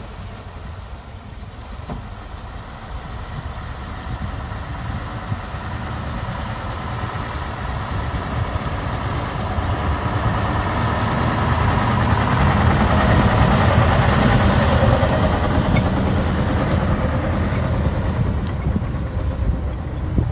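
Engine of a heavy construction machine (bulldozer or dump truck) running, growing steadily louder to a peak about two-thirds of the way through, then easing off slightly.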